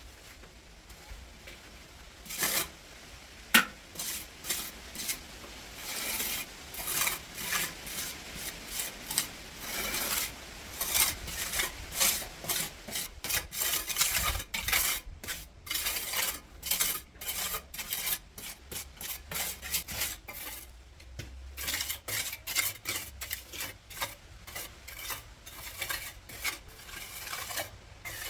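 A hand tool scraping a rough surface in many short strokes, roughly one or two a second, with a sharp knock about three and a half seconds in.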